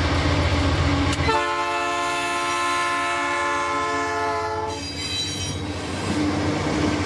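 A loaded freight train passing close by: the deep rumble of its diesel locomotives, then a horn blast lasting about three seconds that falls slightly in pitch. After that come the rolling rumble and clatter of the grain hopper cars on the rails.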